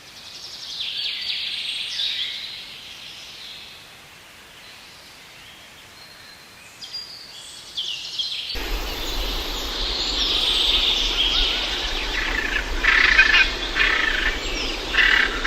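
Songbirds chirping and singing. About halfway through it switches abruptly to another recording with louder, denser birdsong over a steady background hiss and low hum.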